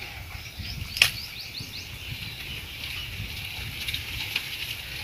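A small bird chirping a quick run of short, high, falling notes about a second in, just after a sharp click, over a low outdoor rumble.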